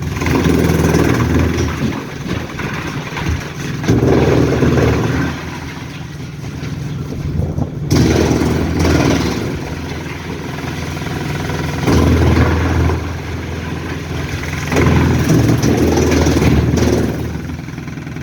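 A heavy engine running, with loud surges every three to four seconds, as if revved repeatedly under working load.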